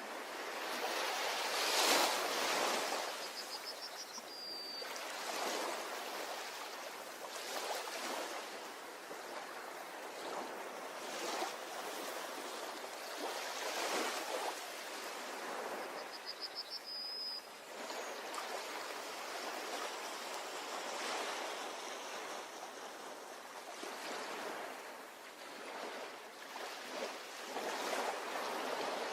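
Ocean surf washing onto a beach, rising and falling in repeated swells. A short high chirping call is heard twice, several seconds in and again past the middle.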